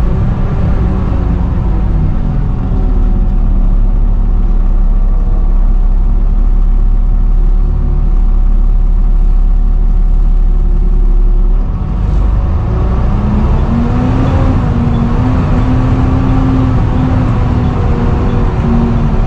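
Volvo B7TL double-decker bus running with its loud hoover-like whine over a steady engine drone. About twelve seconds in the low drone drops off and the pitch then rises again as the bus picks up speed.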